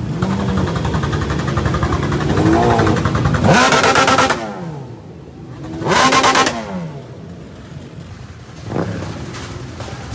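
Motorcycle engines revving and passing close by, with two loud pass-bys about three and a half and six seconds in, the engine note falling away after each.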